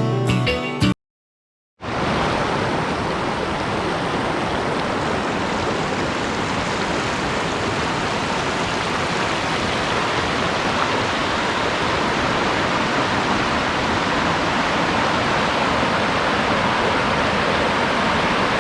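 Steady, even rush of falling water from a waterfall, starting about two seconds in, after acoustic guitar music ends and a moment of silence.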